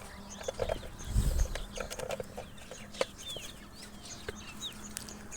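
Birds chirping and clucking in the background, with scattered sharp clicks of handling and a low thump about a second in.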